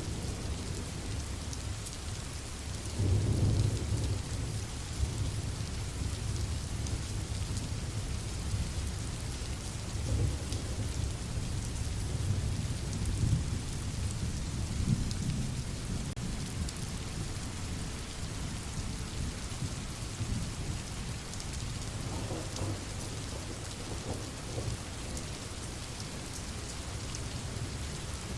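Steady rain falling, with low rolls of thunder; the loudest rumble comes about three seconds in, and weaker ones follow several times.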